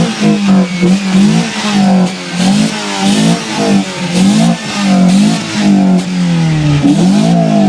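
An engine running and being revved, its pitch rising and falling over and over.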